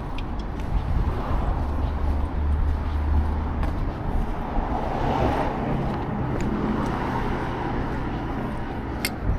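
Town street ambience with a steady low traffic rumble that swells for a couple of seconds early on. There is a single sharp click near the end.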